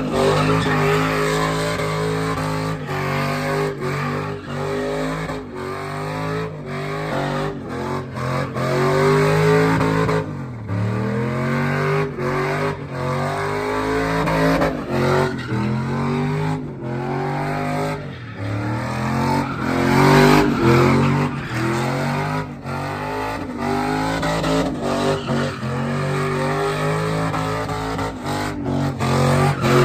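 Truck engine revving hard, its pitch climbing and dropping over and over, with tyres squealing as the truck is drifted.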